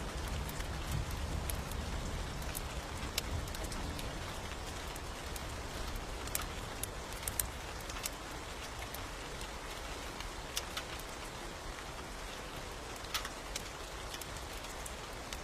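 Steady rain falling, with scattered sharp clicks and pops throughout. A low rumble fades out over the first couple of seconds.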